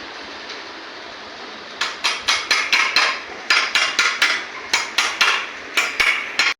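Hammer striking metal in a quick series of blows, about three to four a second in short runs, starting about two seconds in, as a motorcycle's steering-head cone set (bearing race) is knocked into or out of place.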